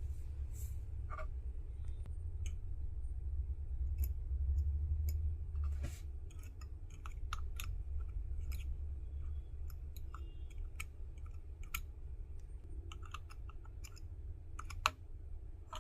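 Irregular light clicks and taps, a few a second at times, over a steady low rumble.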